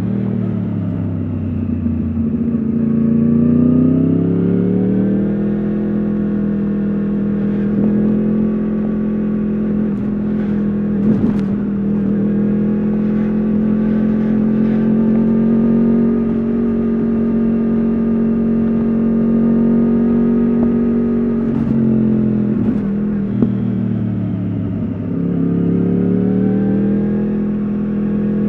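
Yamaha R1 RN22's crossplane inline-four running through an Akrapovič exhaust under way: the engine pitch climbs over the first few seconds, holds steady for a long stretch, drops briefly about three-quarters of the way through, then climbs again at the end.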